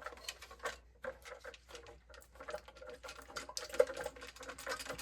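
Irregular small clicks and rattles as a furnace condensate-drain part is handled and shaken, thickening into a rapid clatter about three and a half seconds in, with dirt inside the part.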